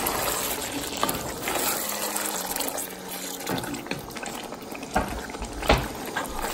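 Chicken curry frying in oil in a deep pot, sizzling steadily, while a wooden spatula stirs it, with a few knocks and scrapes against the pot.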